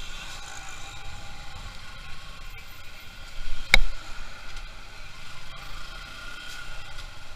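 Road noise from a moving motorcycle: a steady rush of wind, engine and tyres. A single sharp knock stands out a little past halfway.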